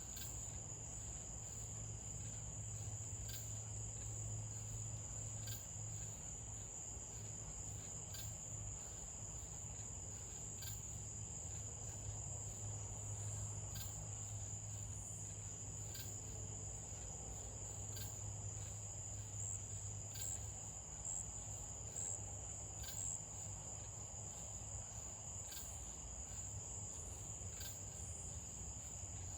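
Crickets trilling in a continuous, steady high-pitched chorus over a low background hum, with faint ticks every couple of seconds.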